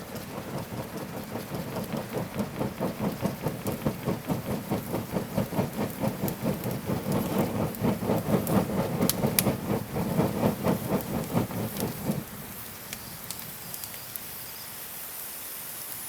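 A piece of cardboard fanned quickly over a campfire: a fast, even run of air puffs, about four or five a second, that stops about twelve seconds in, leaving a steady low hiss.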